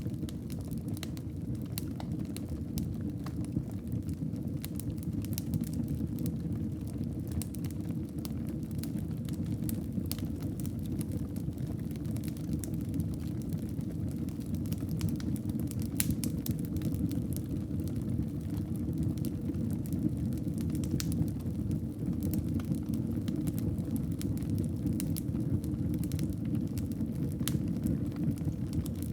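Wood fire burning in a fireplace: a steady low rumble of flames with frequent small sharp crackles and pops from the burning wood.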